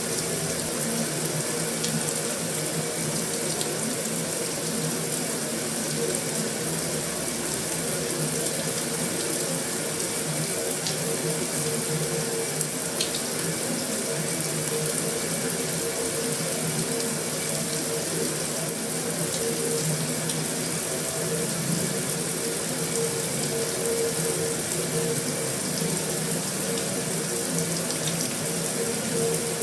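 Heavy rain falling steadily on a metal roof, an even unbroken hiss with a faint steady hum beneath it and a few faint drip ticks.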